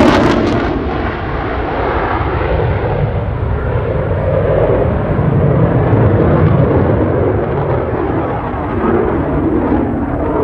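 F-16 fighter jet's engine roar after a close pass: the high-pitched part falls away within the first second, leaving a deep, crackling rumble that carries on as the jet moves off.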